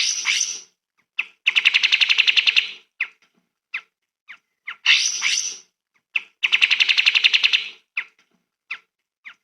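A songbird singing in a repeating pattern: a harsh, scratchy burst, then a fast, even trill lasting over a second, with single short chirps in between. The pattern comes round twice.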